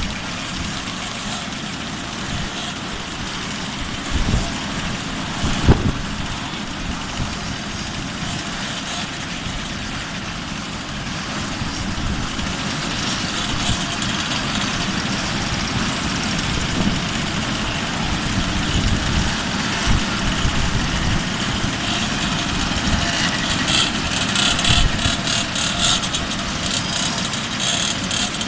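Moped engines idling together in a line-up, with a couple of brief louder blips early on and the sound getting louder and crackier in the second half.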